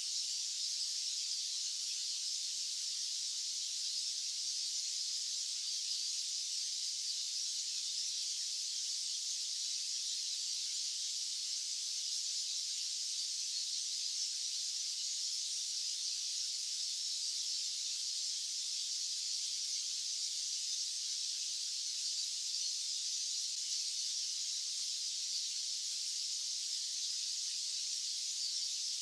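Steady white-noise hiss, high-pitched with no low rumble, unchanging throughout.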